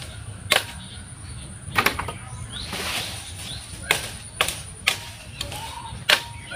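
Irregular sharp snaps and knocks, about seven of them, with a rustling swish of leaves around the middle: broken pepper-pole branches and twigs being cut and cleared away.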